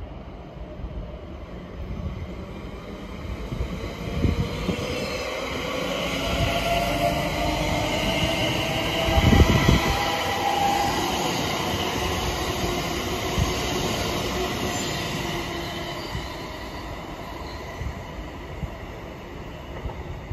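Electric passenger train running through the station. Its noise grows to a peak about nine seconds in and then fades away, with a high whine above it and a cluster of low thuds at its loudest.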